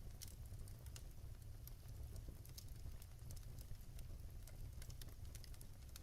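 Wood fire burning in a fireplace, crackling with irregular small sharp pops over a faint steady low rumble.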